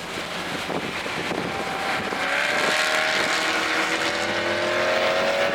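2024 Toyota GR Corolla's turbocharged 1.6-litre three-cylinder engine, fitted with an aftermarket intake, accelerating under load on track. Its pitch climbs steadily from about two seconds in.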